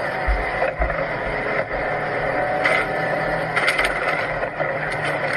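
A car running, a steady mechanical hum, with a few low thumps in the first second and some short clicks later.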